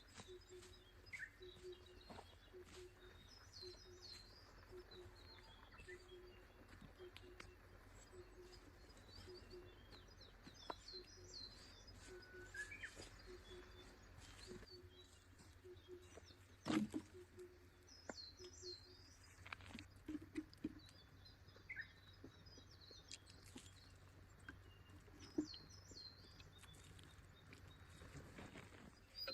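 Faint forest birdsong: small birds chirping in short, high phrases again and again. Beneath it a faint low note pulses steadily for about the first half, with scattered light clicks and one sharp click a little past the middle.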